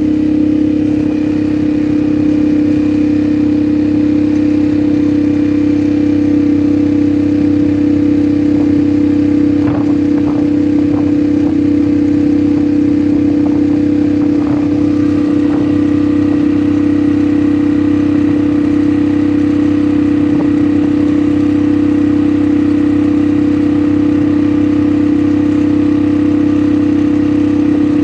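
An ATV engine runs at a steady, unchanging pitch throughout. A few short knocks come between about ten and sixteen seconds in.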